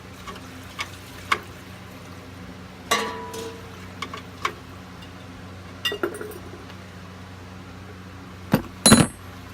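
Scattered clinks and knocks of hard objects being handled, one ringing briefly. The loudest pair comes near the end, over a low steady hum.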